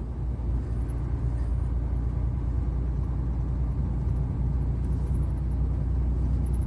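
Long-haul truck driving at steady road speed: an even, low drone of engine and tyre noise heard from inside the cab.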